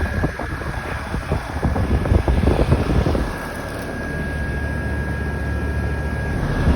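2001 American Standard Allegiance 10 2.5-ton air conditioner running with a steady hum and a thin high steady tone. Wind gusts on the microphone in the first few seconds.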